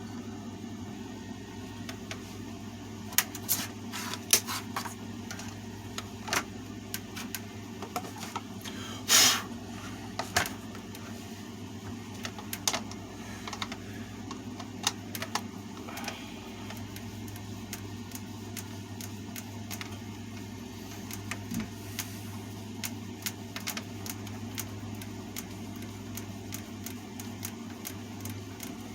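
Irregular clicks, taps and clatter of plastic and metal fan parts and a screwdriver being handled during disassembly of a table fan, over a steady low hum.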